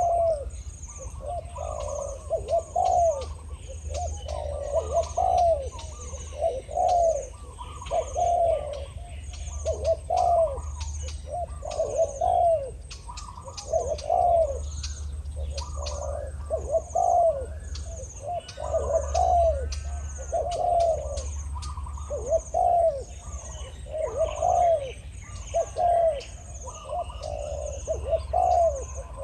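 Spotted doves cooing over and over, one phrase about every second, as a caged decoy dove and a wild dove call back and forth. A thin high chirp repeats steadily above them.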